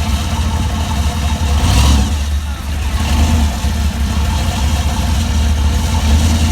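Car engine running with a steady, heavy low rumble, swelling briefly about two seconds in.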